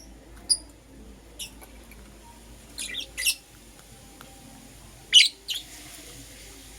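Lovebirds giving short, high chirps now and then: one about half a second in, another near a second and a half, a quick pair around three seconds, and the loudest just after five seconds, followed by a softer one.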